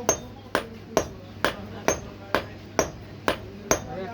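Blacksmith's hammer striking hot metal on an anvil in a steady rhythm, about two blows a second with a short ring after each, forging a fishing spear.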